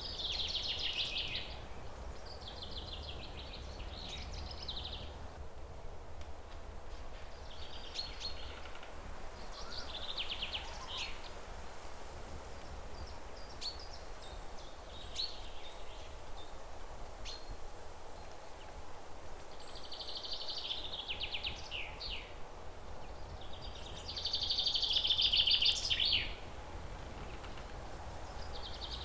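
Songbirds singing in repeated bursts of rapid, chattering high notes, each lasting a second or two, with the loudest burst near the end, over a steady low background rumble.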